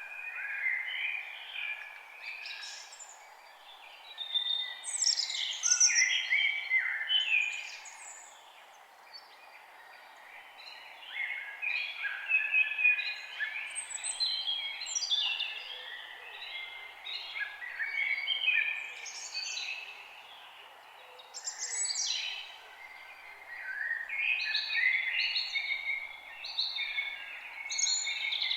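Several songbirds singing and chirping at once in overlapping, warbling phrases that come and go in waves, over a steady background noise.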